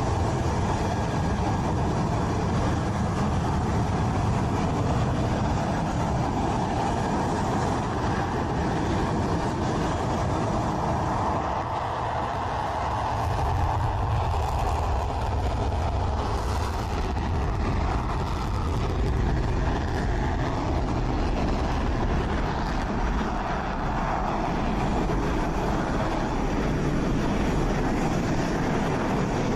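Rafale fighter jets' turbofan engines running loud and steady, a dense jet noise that holds without a break.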